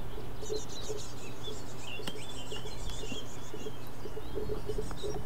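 Birds chirping and twittering in quick repeated phrases over a steady low background hum.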